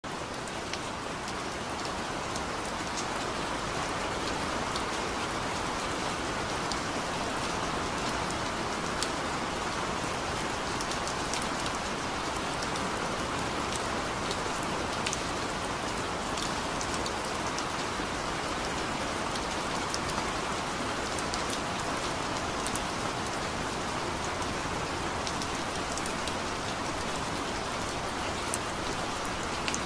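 Steady rain falling: an even, unbroken hiss with scattered sharp ticks of individual drops.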